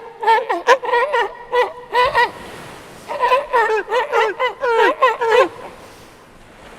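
Poultry calling: a quick run of about eight short calls, a brief pause, then a second run of about ten.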